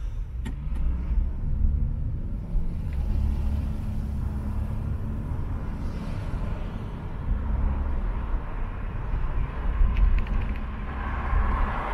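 Car driving in city traffic: steady low engine and road rumble, with tyre hiss growing near the end.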